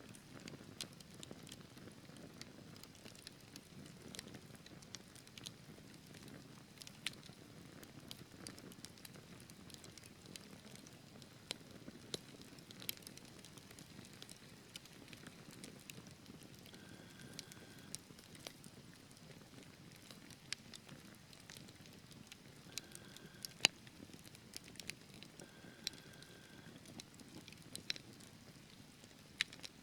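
Wood fire burning in a fireplace: a soft low rumble of flames with scattered sharp crackles and pops from the logs, one louder pop about two-thirds of the way through. A few brief faint whistles come and go.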